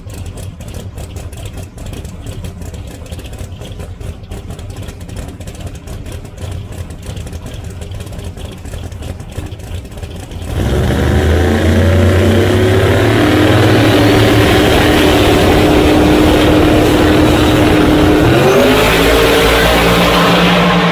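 Drag racing cars running a rough, crackling idle, then launching at full throttle about ten seconds in and pulling hard down the strip. The engine note holds steady and then steps up once near the end.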